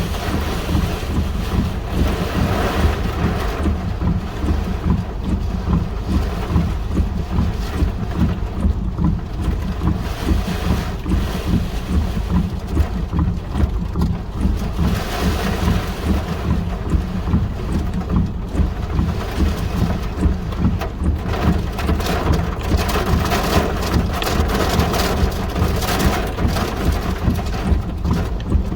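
Strong gusty wind buffeting the microphone: a heavy, steady low rumble with rushing gusts that swell several times.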